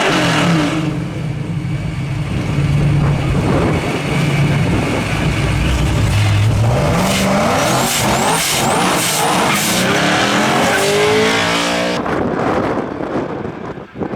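Drag-racing engines rumbling steadily at the line, then launching with rising revs and accelerating hard down the street. About twelve seconds in, the engine sound drops away, leaving wind noise on the microphone.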